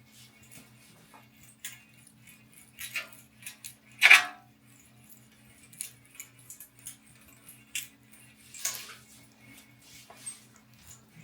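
Razor blade scraping over windscreen glass, with irregular clinks and ticks as it catches on small metal specks embedded in the glass surface; the clinking marks the specks being knocked off. The loudest scrape comes about four seconds in and another near the end.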